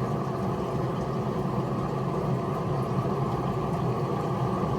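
Steady low engine-like hum, running evenly without change.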